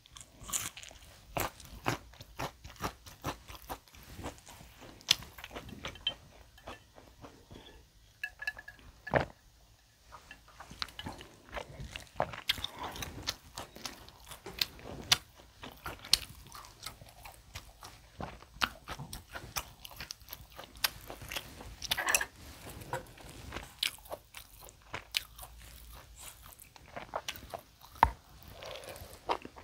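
Close-miked chewing and biting of grilled tomahawk steak, a steady run of irregular clicks and crunches, with a few louder bites now and then; the meat is somewhat dry and overcooked.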